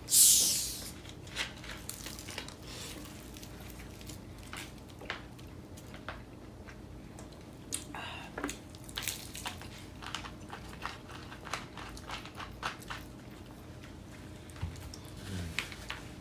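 People chewing and biting food close to the microphones, with small clicks and crunches scattered throughout and a brief, loud rustle right at the start.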